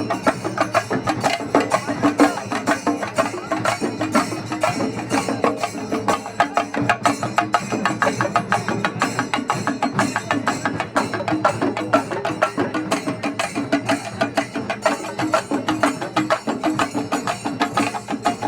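Traditional Kerala temple percussion ensemble drumming fast and dense, with rapid sharp stick strokes packed closely together and no break.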